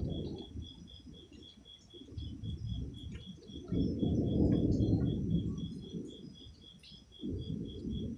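Thunder rumbling from a lightning storm, swelling and fading in waves: a roll dying away at the start, stronger rolls about four seconds in and again near the end. An insect chirps steadily, about three pulses a second.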